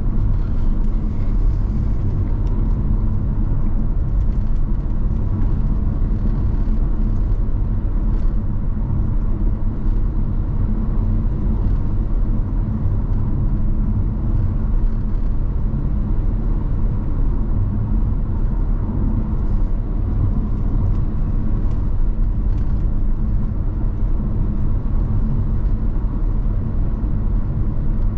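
Car driving at a steady speed on a highway: an even low rumble of tyres and engine that holds steady throughout.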